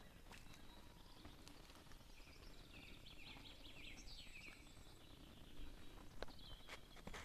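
A songbird singing faintly, a run of quick chirping trills in the middle. A few crunching footsteps on gravel and broken brick, mostly near the end.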